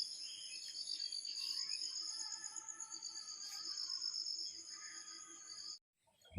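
Crickets and other insects chirping in a steady night-time chorus, with high pulsing trills and some lower steady calls; it cuts off suddenly near the end.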